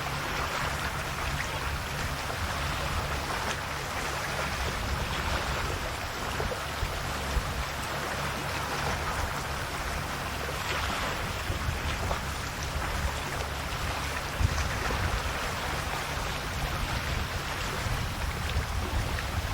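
Calm sea waves washing and lapping on the shore, a steady wash that swells softly every few seconds, with a few small splashes and a low steady rumble underneath.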